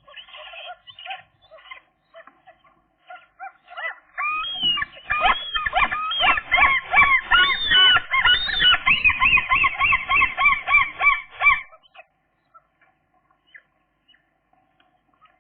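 Gull calling: softer short calls at first, then from about four seconds in a loud, fast run of repeated calls, about three a second, that stops suddenly some seven seconds later.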